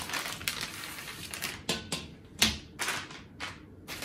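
Plastic packaging and parts of an LED door sill kit being handled: a run of irregular sharp clacks and crinkles, the loudest about two and a half seconds in.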